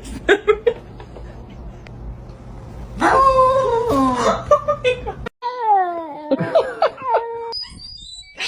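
Cat yowling: a long, wavering meow about three seconds in, then, after a brief cut, another drawn-out yowl that falls in pitch.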